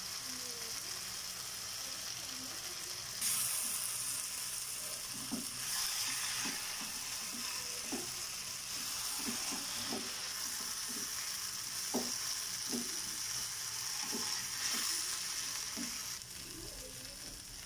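Anchovy and coconut-masala thoran sizzling in a nonstick pan while a spatula stirs through it, with short soft knocks of the spatula against the pan. The sizzle grows louder about three seconds in and eases near the end.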